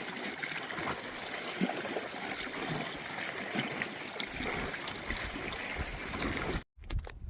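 Water lapping and splashing around a kayak on choppy lake water, with small ticks and splashes. It cuts off abruptly near the end.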